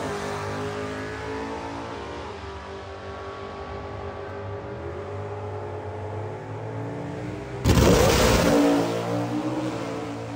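Car engine running under way, its pitch shifting slowly, with a sudden louder rush of engine and road noise about three-quarters of the way through.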